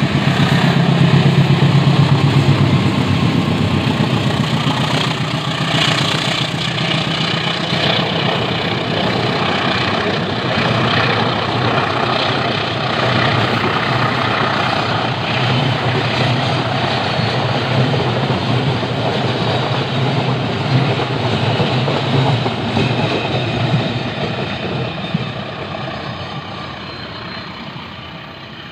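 Diesel-hauled passenger train passing close by on a railway bridge: the locomotive's engine drone is loudest in the first few seconds, then the steady running rumble of the carriages, fading near the end.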